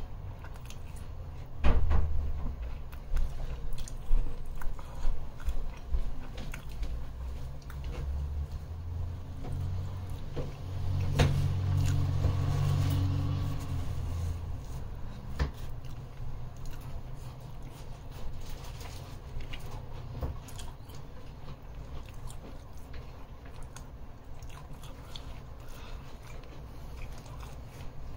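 Close-up eating sounds: biting and chewing a grilled peri peri chicken wrap in toasted flatbread, with crunches of the bread and wet mouth sounds. The heaviest bites come about two to four seconds in.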